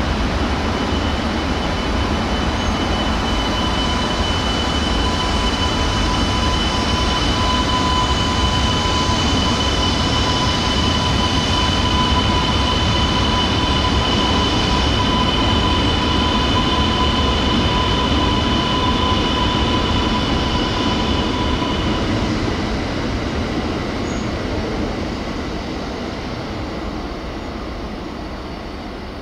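E2 series Shinkansen train moving through the station, a dense running rumble with a steady high whine. The whine stops about 22 seconds in, and the noise dies away near the end.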